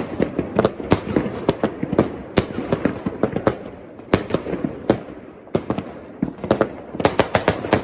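New Year's fireworks exploding in an irregular, overlapping stream of sharp bangs. The bangs thin out in the middle, then a rapid volley of them comes near the end.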